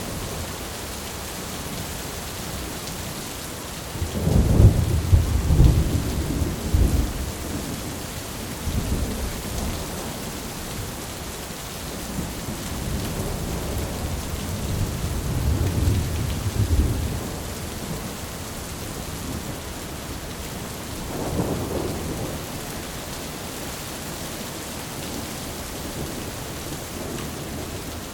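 Thunderstorm: steady rain falling with rolls of thunder rumbling low, the loudest about four seconds in, another around halfway and a shorter one later.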